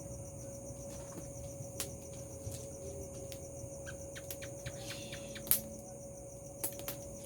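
Steady high chirring of crickets and other night insects, with scattered sharp crackles and pops and one louder crack about five seconds in.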